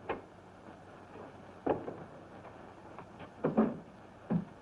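Four separate short knocks or thumps, the one about three and a half seconds in the loudest, over the faint steady hiss of an old film soundtrack.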